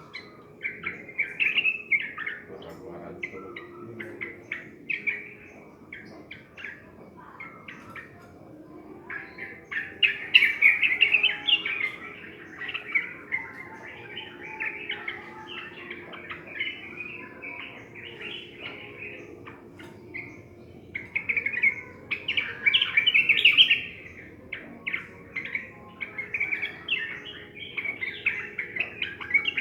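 Yellow-vented bulbuls (trucukan) singing runs of quick, bubbling chirpy phrases, loudest about ten seconds in and again a little after twenty seconds.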